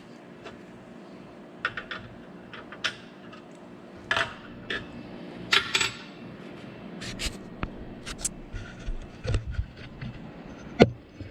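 Small metal hardware and tools clinking and knocking as a saw stand's mounting brackets and bolts are handled: scattered light taps and clicks, some in quick runs, with one louder knock near the end.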